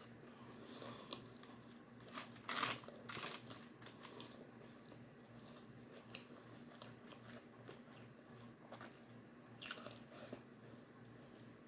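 A person biting and chewing crunchy food close to the microphone, with a few loud crunches about two to three seconds in and again near the end, and softer chewing clicks between.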